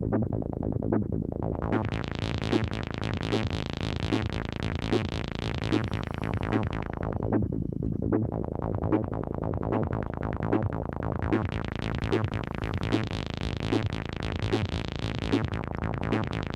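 Boss SY-200 synthesizer pedal in a sequencer patch, triggered by a Telecaster's open A string, pulsing a repeating synth note pattern at a steady tempo. The tone control is being swept: the sound is dull near the start, opens up bright, turns dull again about eight seconds in, then brightens once more.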